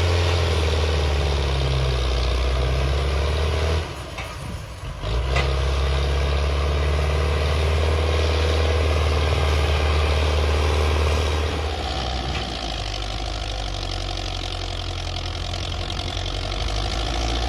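Belarus tractor's diesel engine running steadily with a deep, even hum. The sound drops out briefly about four seconds in and comes back, then settles a little quieter from about twelve seconds on.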